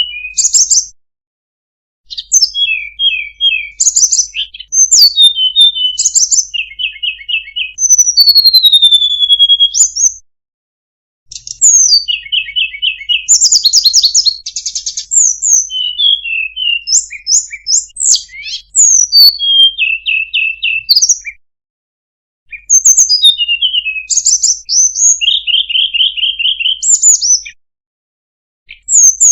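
Tledekan gunung singing loudly in long phrases of varied high whistles and fast chattering trills, with a pause of about a second between phrases.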